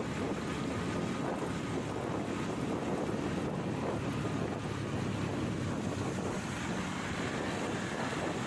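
Wind rushing over the microphone on a moving motorcycle, with the bike's engine and road noise running underneath; a steady, unbroken rush.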